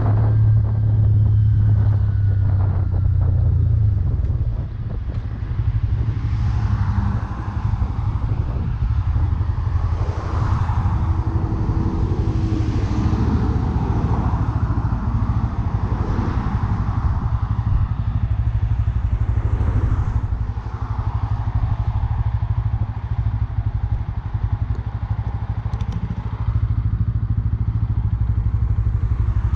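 Bajaj Pulsar N160's single-cylinder engine running steadily, a little louder in the first few seconds.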